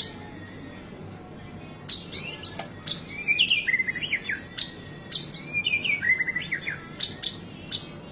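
White-rumped shama (murai batu) singing a fast run of varied phrases: sharp whistled notes and quick rising and falling trills, starting about two seconds in and running to near the end.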